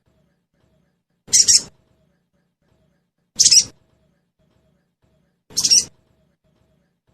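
Sogon bird calling: three short, sharp chirping calls about two seconds apart, each under half a second. This is a recorded lure call, played to make a caged sogon bird respond and start singing.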